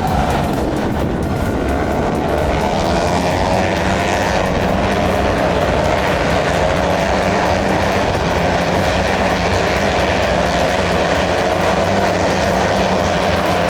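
Steady engine drone whose pitch sinks slowly and then rises a little, running without a break.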